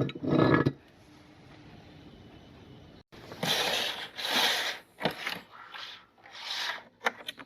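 Meat grinder crushing an item fed into it, heard as a series of rasping, scraping strokes after a cut about three seconds in.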